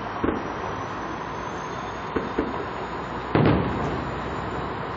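Distant aerial fireworks shells bursting: a single bang, then two quick bangs about two seconds in, then the loudest bang about three and a half seconds in, which dies away slowly. The bangs sound over a steady background hiss.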